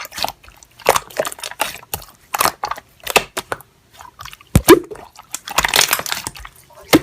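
Slime being squished and pressed by hand, giving irregular wet clicks and squelches in uneven runs, with the loudest squelch just before five seconds in.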